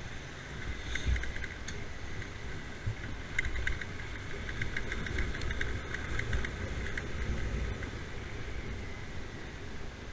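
Riding a two-wheeler: steady engine and road rumble mixed with wind on the microphone. A run of light, rapid rattling comes from about three to seven seconds in.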